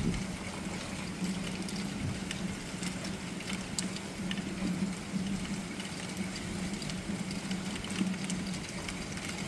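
Steady thunderstorm rain falling, with scattered sharp ticks of drops striking nearby surfaces, over a steady low hum.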